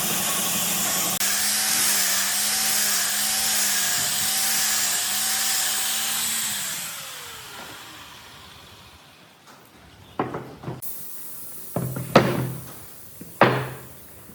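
A power tool runs with a loud hiss and a steady hum, then is switched off about seven seconds in and winds down with a falling tone. It is followed by three sharp knocks in the last few seconds.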